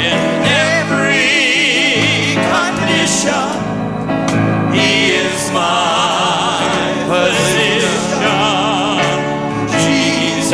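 Gospel singing with instrumental accompaniment: voices hold long, wavering notes over a steady bass.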